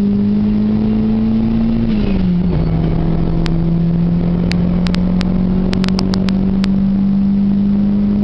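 Car engine pulling under load, heard from inside a moving car: a steady drone that creeps up in pitch, drops once about two seconds in as at an upshift, then climbs slowly again. A quick series of sharp clicks falls in the middle.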